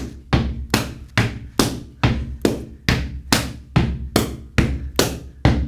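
Gumboot dance percussion: hands slapping rubber gumboots in a steady, even rhythm of about two and a half strikes a second.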